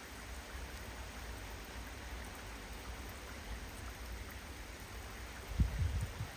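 Steady rain hissing during a windy storm, with a low rumble of wind on the microphone; a stronger gust buffets it near the end.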